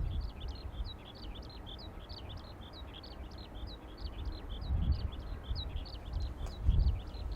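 A small bird singing a continuous run of rapid, high chirps, several a second. Gusts of strong wind buffet the microphone, swelling twice in the second half.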